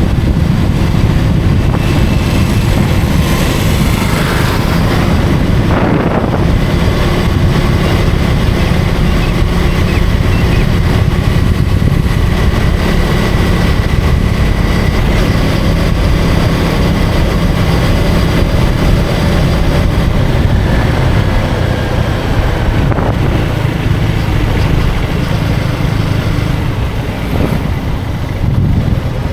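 Motorcycle engine running steadily while riding in traffic, a dense low rumble that holds its pitch, with a brief rise about six seconds in.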